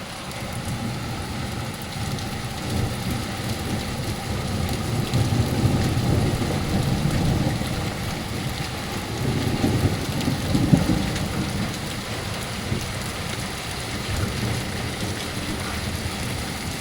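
Torrential rain falling steadily, with rolling thunder rumbling underneath that swells to its loudest around the middle.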